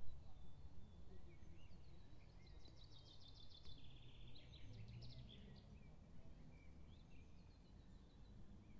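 Songbirds singing faintly, with short chirps throughout and one rapid trilling song about three seconds in, over a low steady outdoor rumble.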